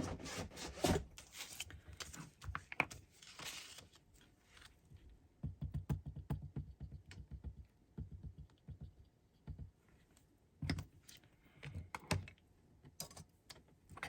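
Paper scraps being rustled and sorted by hand, followed by scattered light taps and clicks of paper and tools handled on a table, with a couple of louder knocks near the end.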